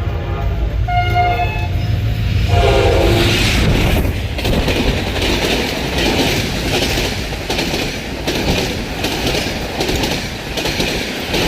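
Express passenger train passing at high speed. Its horn sounds and drops in pitch as the locomotive goes by, then the coaches rush past with a loud, rhythmic clatter of wheels over the rail joints.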